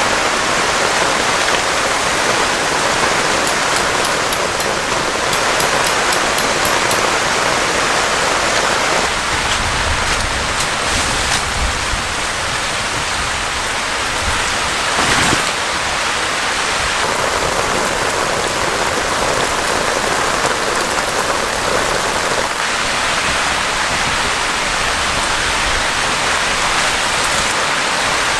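Heavy rain falling steadily in a dense, even hiss. A low rumble swells in about a third of the way through and fades by the middle, and there is one brief sharper hit about halfway in.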